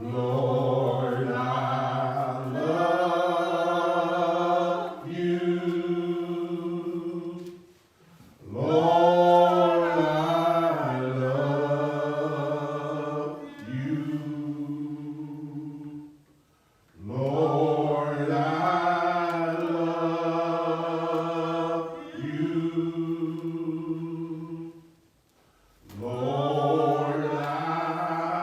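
Unaccompanied singing in a low man's voice: slow, long-held notes in four phrases, with short pauses between them and no instruments.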